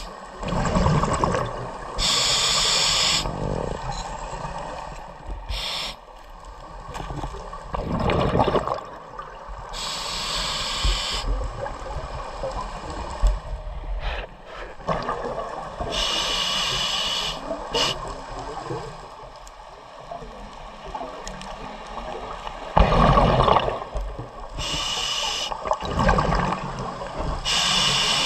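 Scuba diver breathing underwater through a regulator: a hiss on each inhale and a rumble of exhaled bubbles, a breath every several seconds.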